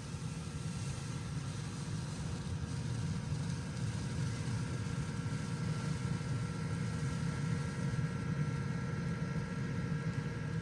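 Steady low hum of an engine idling, with a few faint steady tones above the rumble.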